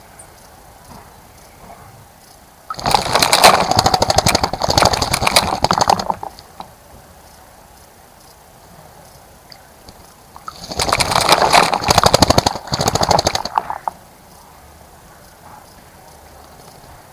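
A bird bathing in a bird bath, beating its wings in the water: two spells of rapid fluttering splashes, each about three seconds long, with a pause between them.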